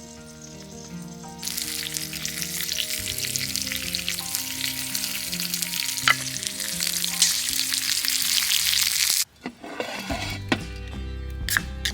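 Food sizzling and crackling in a hot pan, a dense spitting hiss that comes in about a second and a half in and stops abruptly near the end, over background music.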